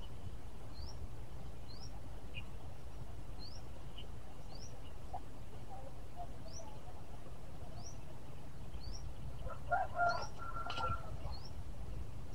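A bird repeats a short, high, rising chirp every second or so, over a low steady rumble. A brief louder sound comes in about ten seconds in.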